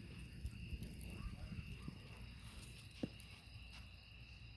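Campfire crackling, with a couple of sharp pops about three seconds in, over a steady chirring of crickets.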